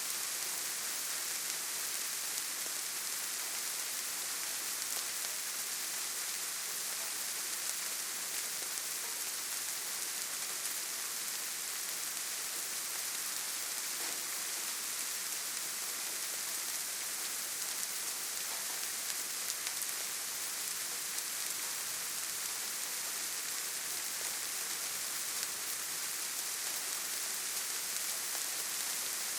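Steady gentle rain, a soft even hiss of fine drops pattering on leaves and ground.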